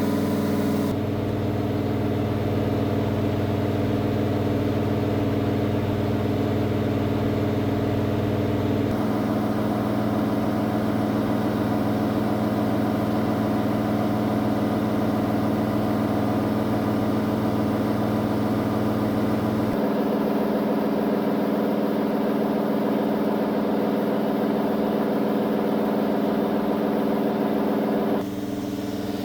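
Race engine running on a dyno during break-in, held at steady speeds that change abruptly several times.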